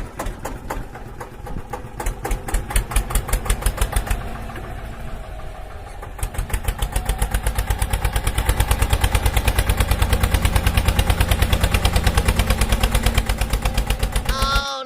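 A small engine chugging with a rapid, even beat, running harder and louder from about six seconds in.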